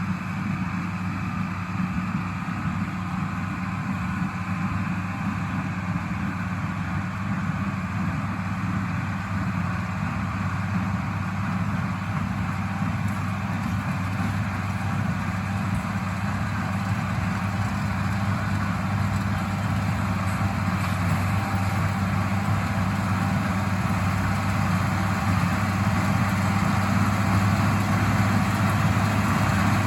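1977 International Harvester 886 tractor's diesel engine running steadily while pulling and driving a John Deere 348 small square baler, growing slightly louder near the end.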